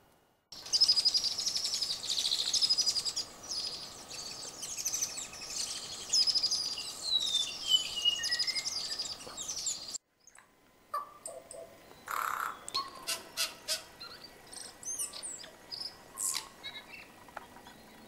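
New Zealand forest birds singing: a dense, high chirping chorus in the first half, then after a sudden break a sparser tūī song of sharp clicks and clear notes.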